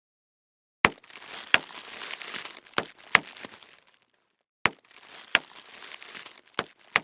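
Bubble wrap being squeezed and twisted: sharp pops, about eight in two bunches, with the plastic crinkling between them.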